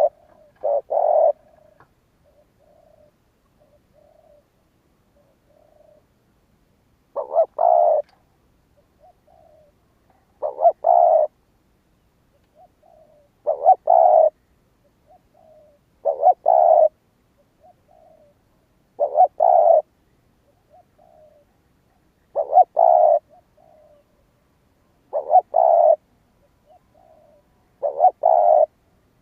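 Spotted dove cooing: a loud coo phrase repeated every two and a half to three seconds, with soft short notes between phrases. After one phrase at the very start there is a pause of several seconds with only the soft notes.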